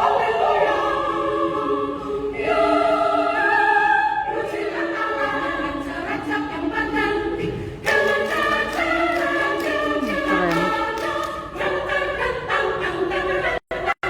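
Women's choir singing in several parts, holding sustained harmonised notes, with new phrases starting about two seconds in and again about eight seconds in. Near the end the sound cuts out briefly twice.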